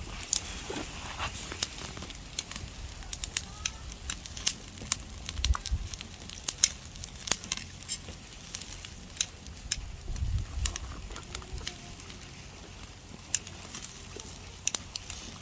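Wood fire crackling, with many irregular sharp pops, under black pork sizzling on the grill above it.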